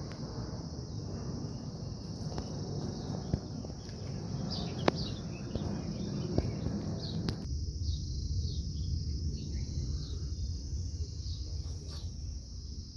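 Steady high-pitched insect chorus, with many short falling bird chirps over it and a low rumble underneath. A sharp click comes about five seconds in.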